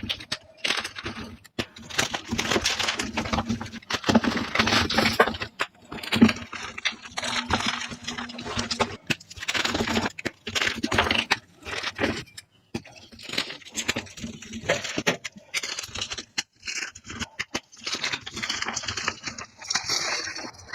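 Reformed gym chalk being crushed and crumbled, played back at double speed: dense crunching and crackling in irregular bursts with short pauses between them.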